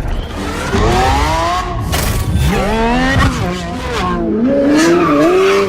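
Sports car engine accelerating hard at high revs, its pitch climbing, dropping back at gear changes about twice, then climbing again.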